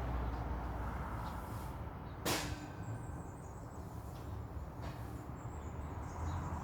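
Steady low outdoor rumble with one sharp click a little over two seconds in and faint high chirps later.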